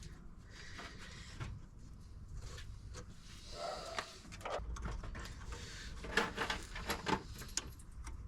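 Faint clicks and light metal handling as a brake-line P-clip is fitted with its original bolt, with a few sharper clicks in the second half.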